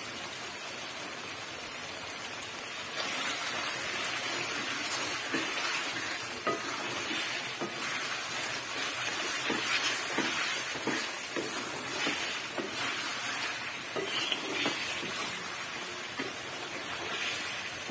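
Chicken karahi sizzling in oil in a metal karahi while a wooden spatula stirs it. The spatula scrapes and knocks against the pan about once a second from a few seconds in. This is the final bhunai stage, with the oil separating from the masala, the sign that the dish is almost done.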